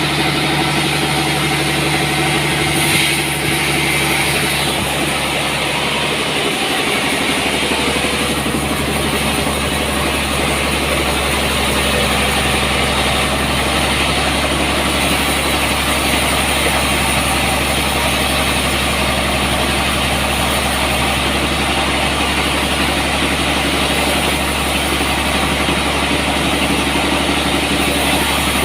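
Sawmill machinery running at a steady pitch: a constant engine-like drone with no break or change in speed.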